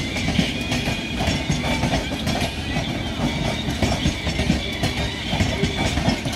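Passenger train running on the track, its wheels clattering rapidly over rail joints, with a thin high wheel squeal coming and going.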